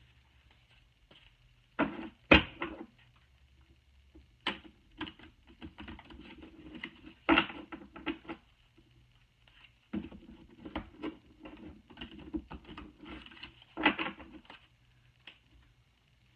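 An oversized oracle card deck being shuffled by hand. The cards rustle and tap in three bursts of quick clicks, with a sharp knock about two seconds in.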